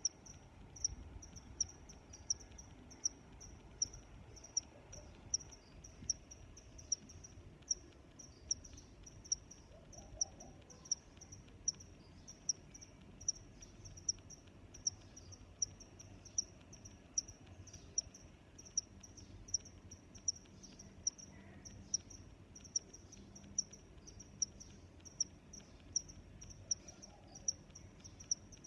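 A cricket chirping steadily: short, high-pitched chirps repeating evenly at about three every two seconds, over a faint low background hiss.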